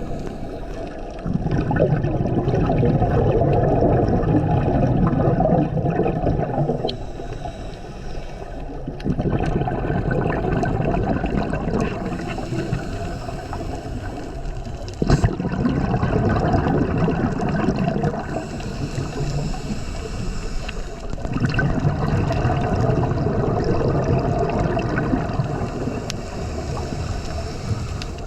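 Scuba regulator breathing underwater: exhaled bubbles gurgle in long rushes of several seconds, with quieter inhalations between them, about four breaths in all. A single sharp click comes about halfway through.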